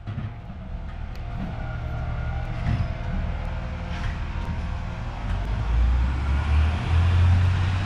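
Garbage truck engine running with a low rumble, getting steadily louder.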